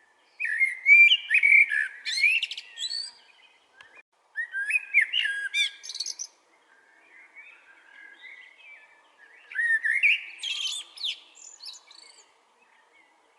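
Chopi blackbird (pássaro preto) singing: three loud phrases of rich, gliding whistles and chirps, a few seconds apart, with softer notes in between.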